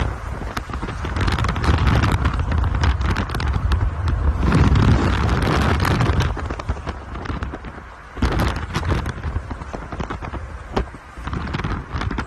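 Storm wind buffeting the microphone in heavy surges, with a low rumble and many sharp knocks and clatters throughout.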